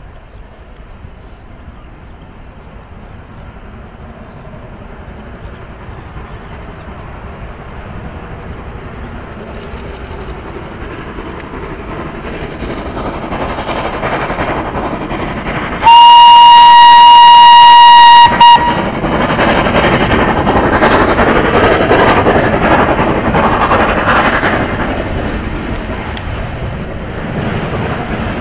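A steam train approaching and growing steadily louder. It sounds its whistle loudly on one steady note for about two and a half seconds, then passes close by with the rumble and clatter of its carriages.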